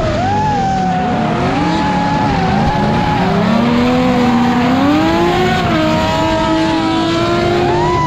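Drift cars' engines revving up and down against each other, several changing pitches at once, over a steady hiss of tyre noise.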